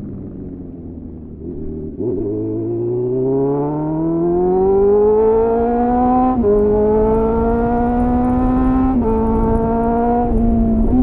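2001 Suzuki GSF 600 Bandit's inline-four engine through a clone SC-Project CR-T exhaust with a home-made dB-killer, heard onboard. Revs sink at first, then the bike accelerates from about two seconds in, the engine note climbing steadily, broken by two quick drops in pitch as it shifts up, and another brief dip near the end.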